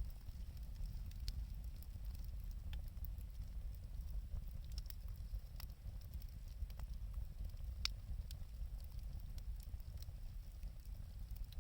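Lumber burning in an open wood fire: a steady low rumble with scattered sharp crackles and pops, the loudest about eight seconds in.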